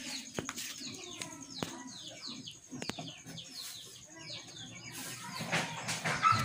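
Small birds chirping over and over in short, quickly falling chirps, with a few scattered clicks.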